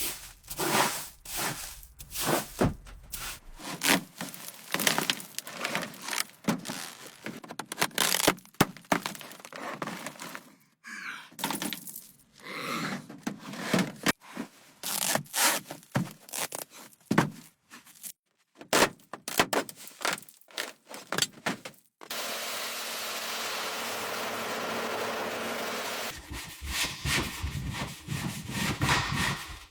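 Irregular knocks, cracks and scraping, as of hand work on hard material. About 22 seconds in, a steady rushing noise runs for some four seconds, then the knocking resumes.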